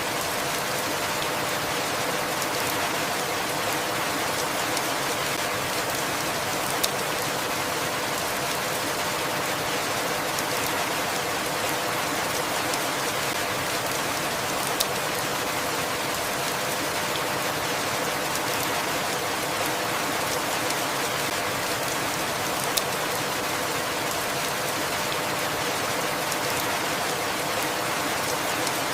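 Steady, even rainfall, with a sharp tick about every eight seconds.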